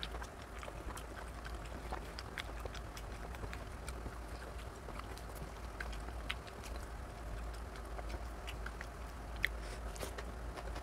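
Close-miked eating sounds: a man chewing mouthfuls of rice and mutton curry, with many irregular wet clicks and smacks of the mouth, over a low steady hum.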